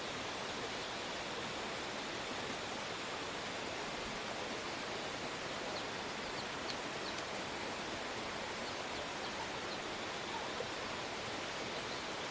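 A steady rushing hiss, with a few faint high chirps about halfway through.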